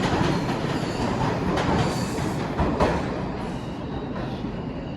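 New York City subway train running on the rails, a steady loud rumble with a few sharp wheel knocks, easing off after about three seconds.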